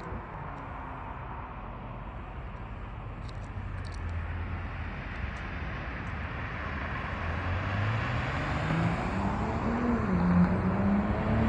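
BMW M340i's turbocharged inline-six through an Active Autowerke axle-back exhaust with stock downpipe: a low, distant rumble after a pass that grows louder from about two-thirds of the way in, with the engine note rising as the car approaches again.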